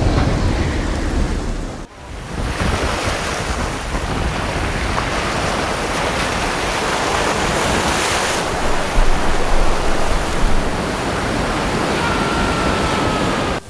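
Loud rushing noise of wind and surging water, such as storm surf or wind on the microphone, with a brief drop about two seconds in and a louder stretch later on.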